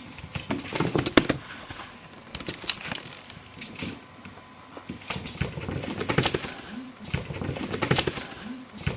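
Cats running and pouncing: an irregular patter and scuffle of paws on the floor, with knocks and thumps, loudest about a second in and again in the second half.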